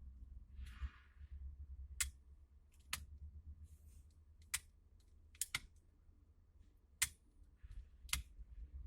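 Sharp, irregularly spaced clicks, about seven of them, from the car's repaired turn-signal switch being worked and tested, over a low steady hum.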